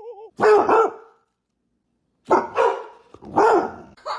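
A dog barking three times, the first about half a second in and the other two close together near the end.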